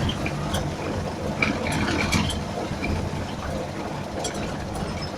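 Moskvich car driving, heard from inside: a steady engine and road rumble with a few scattered knocks and rattles from the body.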